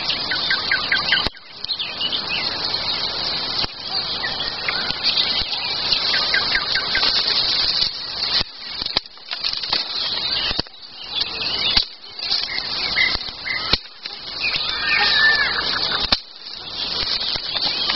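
Wild songbirds chirping in short phrases over a steady rushing noise.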